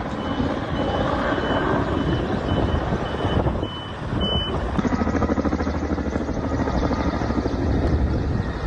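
A truck's reversing alarm beeping about twice a second over a running engine, stopping about four seconds in, after which the engine rumble carries on.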